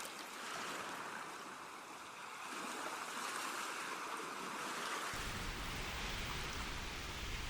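Sea waves washing in and out, the surf rising and falling in slow swells. About five seconds in, a low rumble comes in suddenly beneath it.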